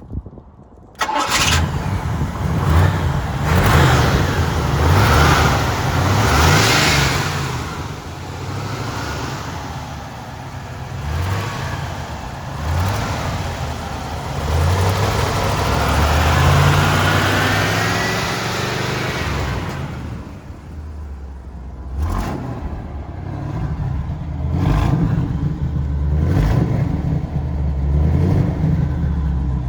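1974 Pontiac Trans Am's SD-455 V8 catching about a second in, then running with a deep, uneven rumble and several swells of throttle revving between lighter running.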